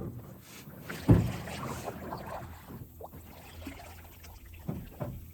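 Canoe on the water: a few sharp knocks against the hull, two close together at the start and about a second in, then a softer one near the end, over a low wind rumble.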